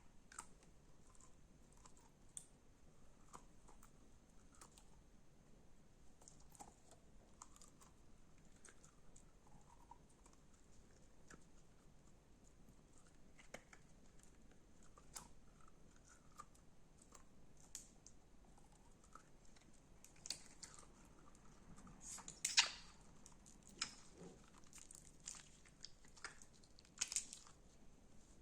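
Slime being handled, giving faint scattered crackles and clicks. The crackling grows denser and louder about three quarters of the way in.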